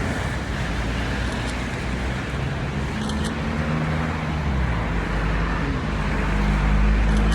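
A motor vehicle's engine and road noise: a steady low rumble with a droning engine note, getting a little louder near the end.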